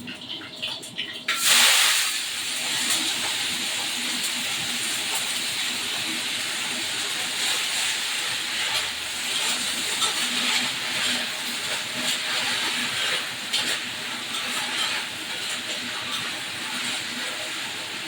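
Food going into hot oil: a sudden loud sizzle about a second and a half in, settling into steady frying with continual small crackles and spits.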